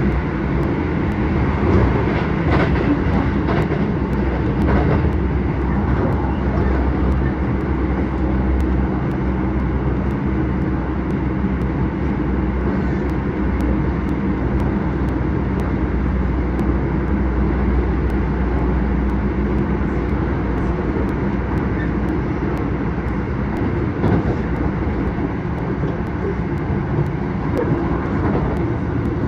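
Keisei 3000-series electric commuter train running at speed, heard from inside the car: a steady running noise of wheels on rails and traction equipment, with a few faint clicks.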